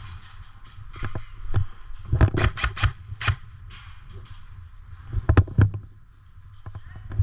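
Airsoft guns firing: two short volleys of sharp snaps, one about two seconds in and another about five seconds in, with a few single clicks between, over a steady low rumble.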